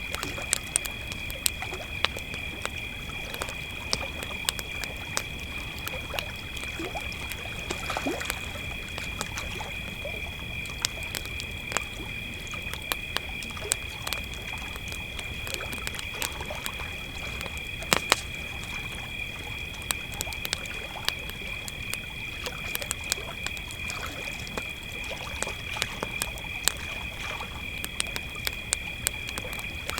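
Crickets chirping steadily in a continuous high trill, over a campfire crackling with frequent small pops and one sharper pop about halfway through.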